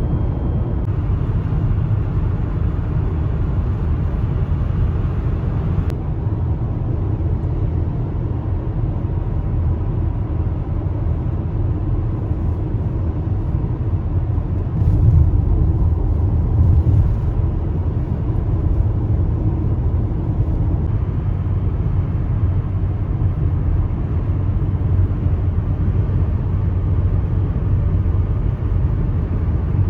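A car driving along a road, with a steady low rumble throughout. It grows briefly louder twice, about halfway through.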